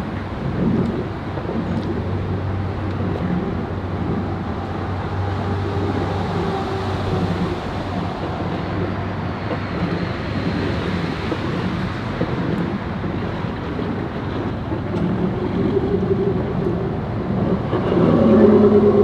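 An engine running steadily at low speed, with wind on the microphone; a louder engine note comes in near the end.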